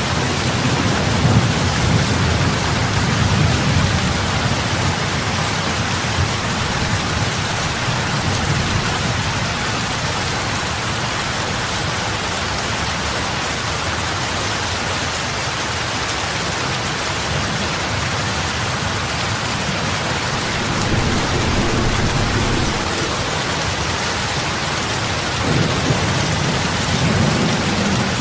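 Steady heavy rain pattering onto lake water, big drops splashing on the surface. A low rumble swells at the start and again near the end.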